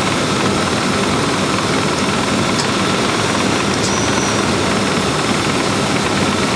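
1995 Lincoln Town Car's 4.6-litre V8 idling with the air conditioning compressor running while the system takes its R-134a charge: a steady, even running noise, with a few faint ticks.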